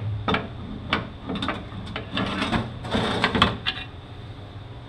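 Sharp metallic knocks and clicks from the oil pump of a 5-45RFE automatic transmission being split apart and its parts handled, with a denser scraping clatter about two to three and a half seconds in.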